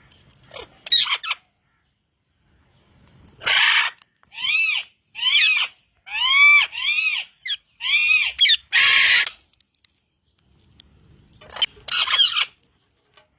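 A parrot squawking in loud, separate calls: one harsh squawk about a second in, then a run of about seven calls where harsh squawks bracket about five shorter calls that each rise and fall in pitch, and another pair of harsh squawks near the end.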